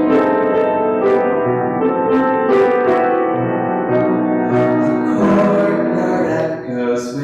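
Piano playing slow, sustained chords as an instrumental passage of a hymn, with no singing.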